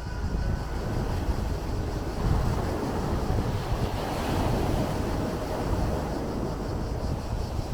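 Sea waves breaking and washing, with wind rumbling on the microphone; one wave's wash swells up about four seconds in.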